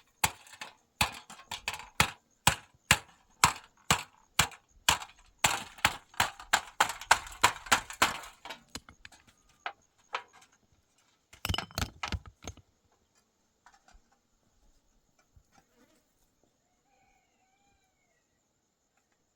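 Repeated sharp knocks, about two a second, that stop about eight seconds in, followed by a short quick flurry of knocks around eleven to twelve seconds.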